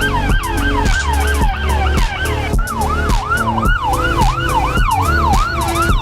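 Fire engine's electronic siren sounding in quick repeated sweeps, then changing about halfway through to slower, wider rise-and-fall sweeps of about two a second. A steady beat of background music plays under it.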